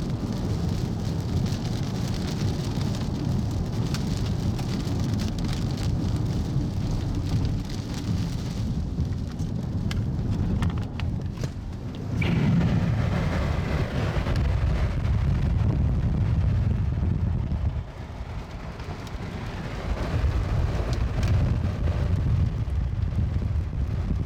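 Rain and wind hitting a moving car, over the steady rumble of tyres on the road. The level dips briefly a few times.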